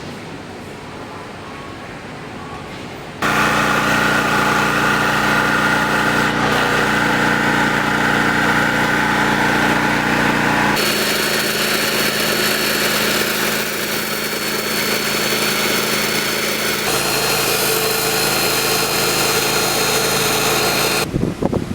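Gasoline engine generator running at a steady hum, quieter for the first three seconds, then loud; the sound changes abruptly about 11 and 17 seconds in, as the shots change.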